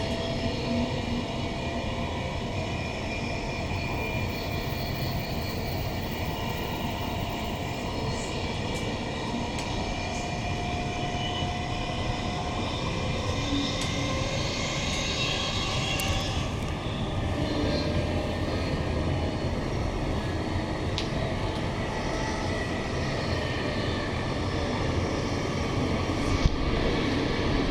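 Inside a Queensland Rail NGR electric multiple unit (Bombardier-built) running between stations: steady traction-motor whine with several high tones over wheel-on-rail rumble, with a single sharp knock near the end.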